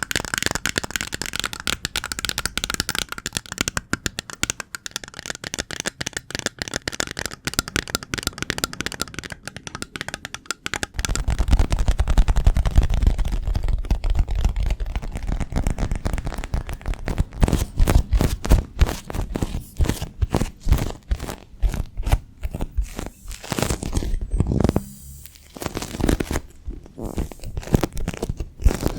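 Close-miked ASMR crinkling and crackling: dense rapid small crackles, turning fuller and deeper about eleven seconds in.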